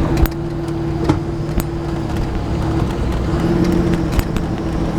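Heavy vehicle engine running steadily at a constant pitch, with a few sharp clicks or knocks over the top.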